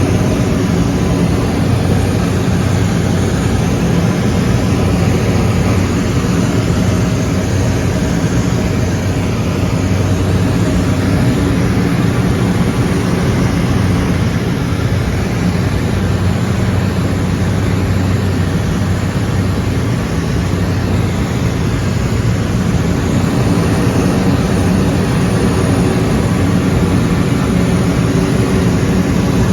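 Aircraft engine noise heard inside the cabin: a steady, unbroken drone with a strong low rumble.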